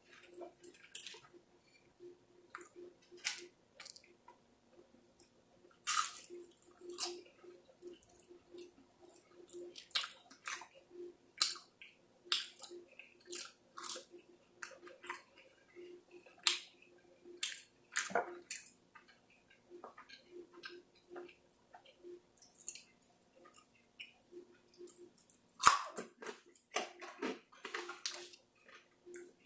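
Close-miked wet chewing and lip smacking while eating sauced chicken wings, with irregular clicks and smacks at uneven intervals over a faint steady hum.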